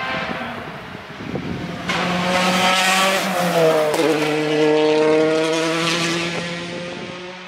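Rally car engine at full throttle passing close by. It gets loud about two seconds in, its pitch drops around four seconds as it goes past, and it then fades away as it drives off.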